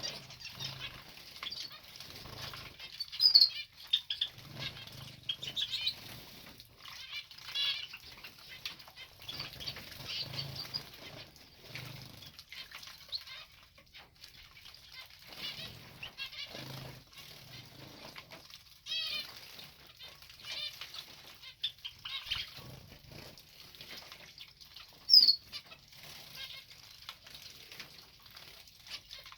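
Small cage birds bathing, fluttering their wings in the water in repeated short bursts of splashing, with a few sharp, high chirps, the loudest about 3 seconds and 25 seconds in.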